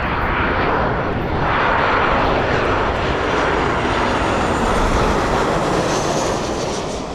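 Ryanair jet airliner's turbofan engines on landing approach, a loud rushing jet noise that builds as the plane comes close and eases off near the end.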